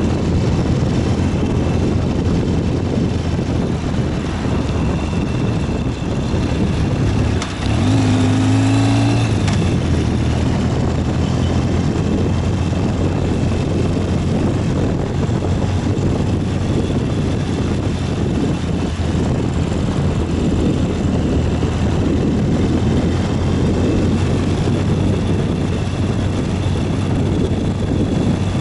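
Ural 750 motorcycle's flat-twin engine running under way, with steady wind and road rush. The engine note dips briefly about seven seconds in, then rises again.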